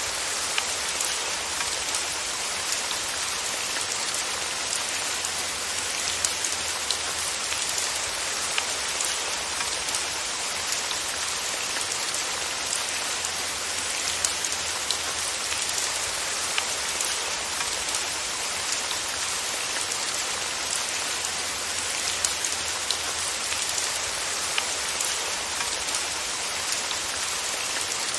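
Steady, even rainfall with many small, distinct drops pattering on a surface, constant throughout with no thunder.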